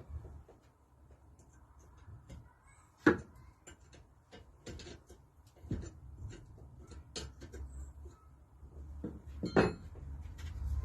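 Scattered clinks and knocks of metal engine parts and hand tools being handled while the engine is dismantled, with two sharper knocks, about three seconds in and near the end.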